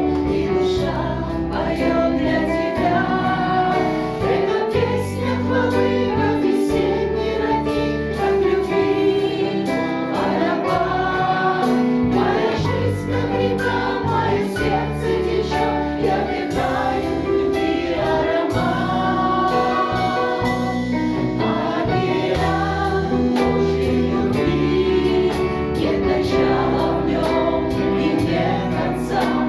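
A choir singing a Christian praise song over a steady instrumental backing.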